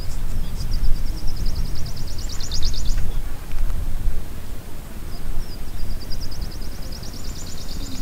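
Two rapid high trills from a small bird, each lasting about two and a half seconds and rising in pitch, the first starting just after the start and the second about five seconds in, over a steady low rumble.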